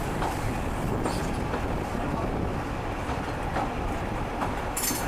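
Train running on the rails: a steady rumble with faint clicks over the track, and a brief hiss near the end.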